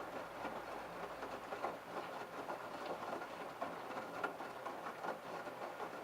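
LG F1222TD direct-drive front-loading washing machine tumbling wet laundry during the prewash: water sloshing and fabric falling in the drum, with a steady pattering of small irregular splashes.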